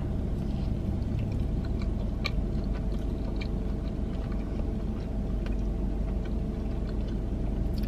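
Close-up mouth sounds of a person biting into and chewing a breaded fried mozzarella cheese on a stick: soft, scattered wet clicks. Under them is a steady low hum inside the car.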